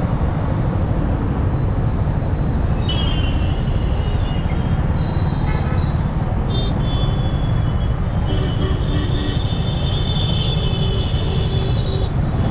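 Steady rush of wind and road noise on the rider's microphone while riding a motorcycle through traffic. Short high-pitched tones from the surrounding traffic come in about three seconds in and again near seven seconds, then run longer in the second half.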